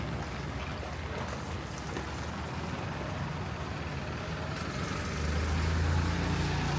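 Steady rain on a city street, with a passing vehicle's low engine hum that grows louder about five seconds in.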